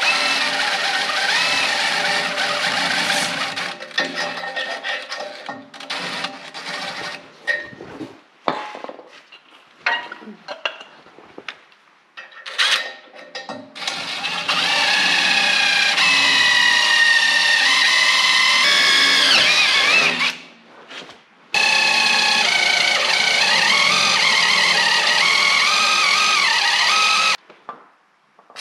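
Electric drill boring holes through a thick steel plate and tractor frame, in several long runs with short bursts and pauses between; the motor's whine wavers and dips in pitch as the bit loads up in the steel.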